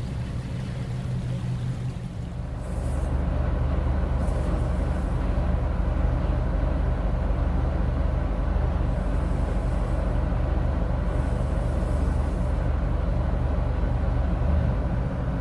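A cargo boat's engine running steadily with a low hum, getting louder about two and a half seconds in.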